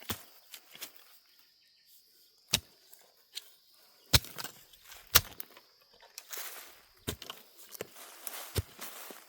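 Irregular sharp knocks, about five of them, with rustling in between, over a steady high insect drone.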